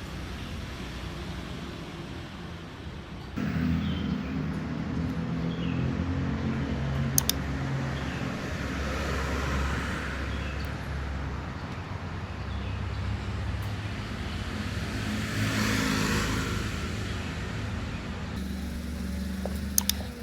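Road traffic: motor vehicle engines running steadily close by, with vehicles passing twice, and a couple of sharp clicks.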